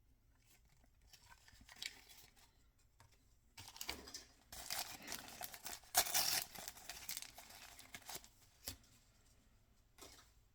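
Toy packaging being torn open and crinkled by hand: a few light clicks, then several seconds of loud ripping and rustling of wrapper material that peaks in the middle, followed by a couple of soft taps.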